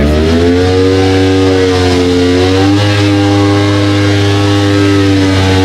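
A car engine held at high revs while standing in place, loud and steady, its pitch sagging and rising slightly.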